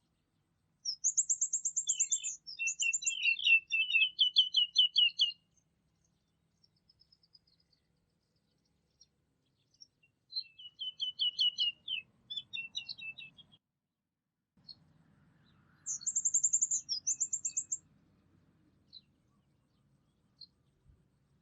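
Songbirds singing in three bursts of rapid, repeated trilled notes, with a very high trill over lower chirping notes, and single chirps in the gaps between.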